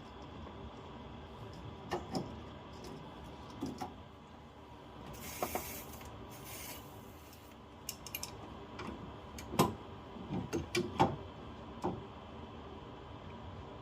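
Hand tools and metal boiler fittings knocking, clicking and scraping during repair work on a leaking joint, with a short hiss about five seconds in and a cluster of sharper knocks near the end.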